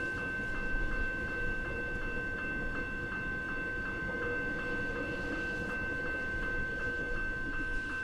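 Level crossing warning bell ringing, a rapid even ding about three times a second, over the rumble of a suburban electric train.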